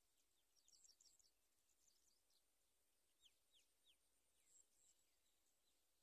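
Very faint, high-pitched bird chirps against near silence. They come as short notes falling in pitch, in small clusters: about a second in, a run of three a little past three seconds, and another near five seconds.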